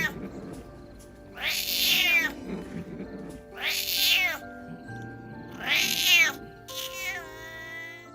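Kitten meowing four times, about two seconds apart, each call high and falling in pitch, over soft background music.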